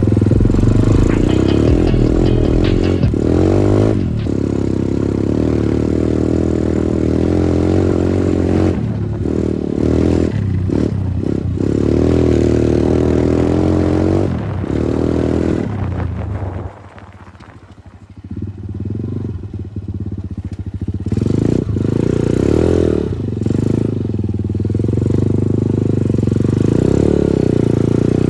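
Progasi Smart Max 150 motorcycle's 150 cc engine running while being ridden, its revs rising and falling with the throttle. A little past halfway it drops off to a much quieter low run for about two seconds, then picks up again.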